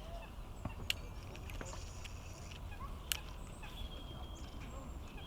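Outdoor lakeside ambience: a steady low rumble with faint bird calls, broken by two sharp clicks, one about a second in and another about three seconds in.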